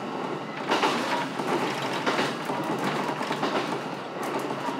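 JR East E129 series electric train running along the track, a steady noise of wheels on rail with a few sharp clicks near the end.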